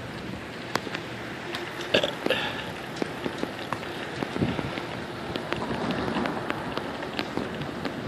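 Bicycle riding along a city street: a steady hiss of tyre and wind noise with scattered small clicks and rattles throughout, a cluster of louder knocks about two seconds in.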